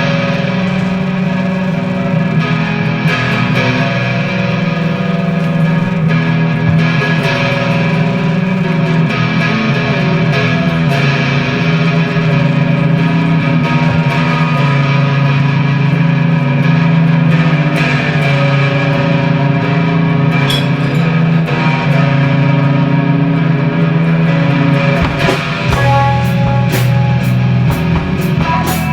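Live indie rock: electric guitars playing sustained, effects-laden chords with a little distortion, over low held notes, with little or no drumming until sharp cymbal-like hits come in near the end.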